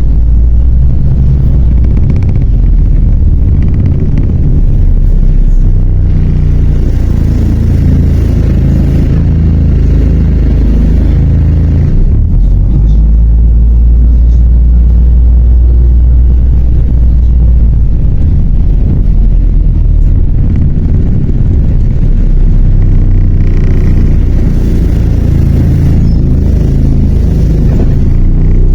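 Diesel engine of a MAZ 103 city bus running while the bus is under way, heard from inside the passenger cabin: a loud low rumble whose pitch shifts as the engine speed changes. It is steadiest from about 12 to 18 seconds in.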